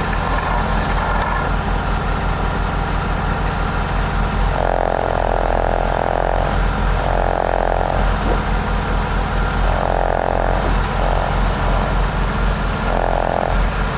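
A Timberjack forwarder's diesel engine running steadily, with a mid-pitched whine that swells and fades several times from about four seconds in.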